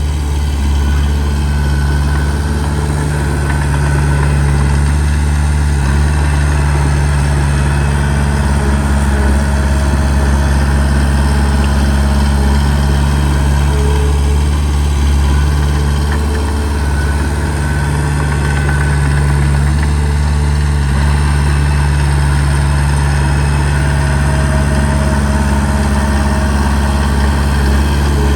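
Heavy earthmoving diesel engine running steadily at an even speed, with a deep, constant engine note.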